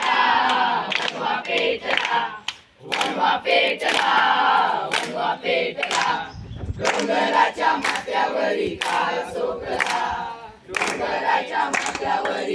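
A group of students singing together in unison, in four phrases with short breaks between them.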